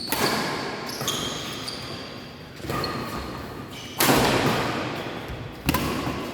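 A badminton rally: rackets striking the shuttlecock about five times, sharp cracks that echo in a sports hall, the hardest hit, a smash, about four seconds in. Short high squeaks between hits, typical of shoes on the court floor.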